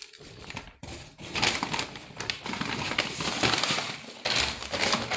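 Grocery packaging crinkling and rustling as items are handled, a dense run of small crackles that grows louder about a second in and dips briefly near the end.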